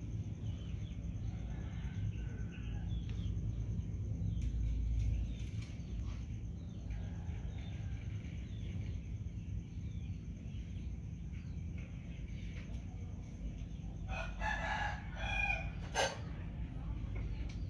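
Steady low background rumble with scattered faint bird calls. Near the end there is a louder call of several stacked tones, followed by a single sharp click.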